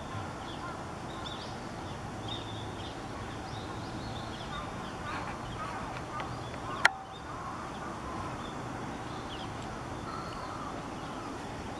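Small birds giving short, high chirps over a steady outdoor background, with a single sharp click about seven seconds in.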